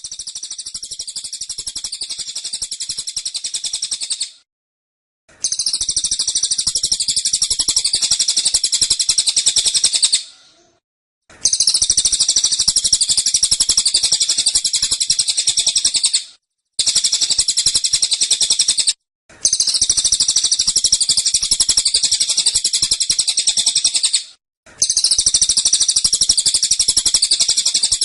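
A cililin songbird sings its rapid, dense 'tembakan' burst song. Fast, high-pitched trills come in bouts of about two to five seconds, with short pauses between them.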